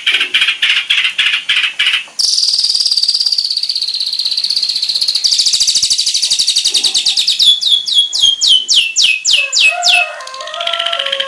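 Songbird song in a spliced sequence. A fast run of repeated chips switches abruptly about two seconds in to a long, high, rapid trill. From about seven seconds in comes a series of sharp down-slurred whistles, about four a second, and lower chattering notes follow near the end.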